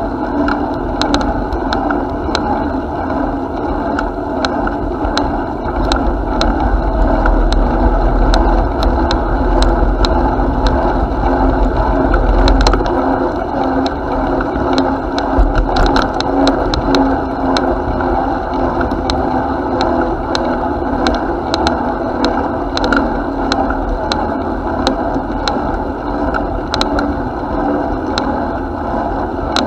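Bicycle in motion: steady tyre and running noise with frequent small rattling clicks, and a heavier low rumble from about six to thirteen seconds in.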